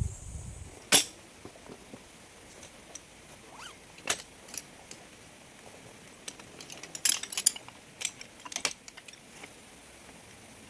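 Scattered sharp clinks and knocks of gear being handled: one about a second in, another about four seconds in, and a quick run of them later on.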